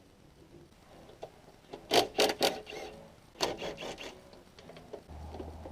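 A few short, sharp metallic scrapes and clacks in two clusters, about two seconds in and again about three and a half seconds in, from hand-tool work on a car body during a part-out.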